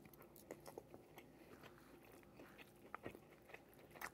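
Faint chewing and mouth sounds of a person eating a bite of pepperoni, with soft irregular clicks and crunches.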